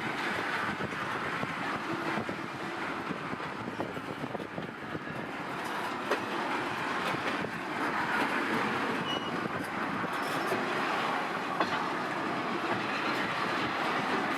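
Freight train of petroleum tank wagons rolling past: a steady rumble of the running wagons, with scattered clicks of wheels crossing rail joints.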